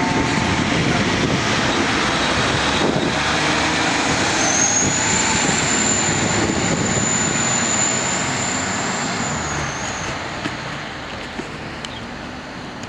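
Fire truck driving past and pulling away: loud diesel engine and road noise that fades over the last few seconds, with an air-horn blast cutting off right at the start and a high steady whine in the middle.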